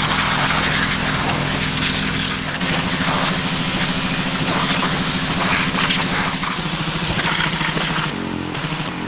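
An engine running steadily under a loud, even hiss. The hiss drops briefly about eight seconds in.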